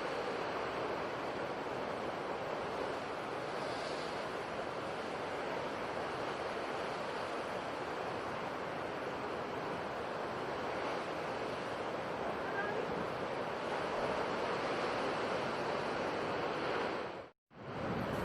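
Steady wash of sea surf that cuts out to silence for a moment near the end.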